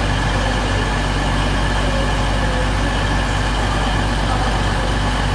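Diesel train engine idling steadily: a constant low hum with a faint steady whine above it.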